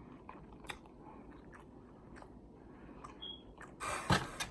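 Close-up chewing of tender barbecued beef short rib: soft, wet mouth sounds with a few small clicks, louder near the end.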